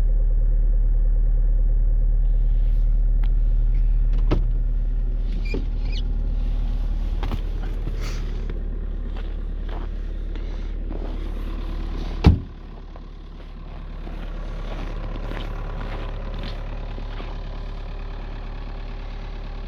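Skoda Octavia 1.6 TDI four-cylinder diesel engine idling steadily in extreme cold (about −21 °C), shortly after a cold start. Scattered clicks sound over it, and a sharp knock comes about twelve seconds in, after which the deep hum drops lower and quieter.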